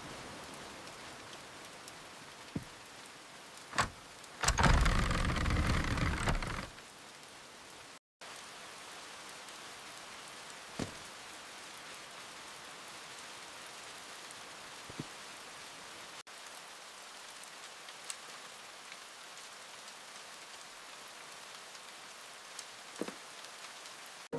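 Steady rain falling, with an occasional single drop or drip ticking. About four and a half seconds in, a much louder burst lasts about two seconds.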